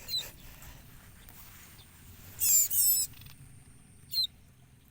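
Ciblek koya birds calling in short, high-pitched chirps: a brief one at the start, a louder double burst of falling squeaks about two and a half seconds in, and another brief chirp near the end.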